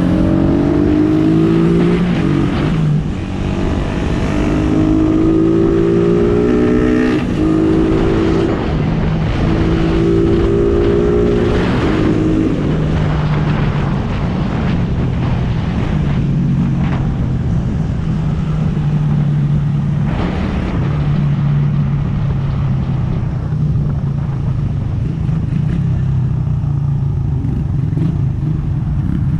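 Suzuki Raider R150 motorcycle's single-cylinder four-stroke engine, heard from on board while riding. It revs up through several gears in the first dozen seconds, each rise in pitch breaking off at a shift, then runs at a steadier cruise with small rises and falls in revs.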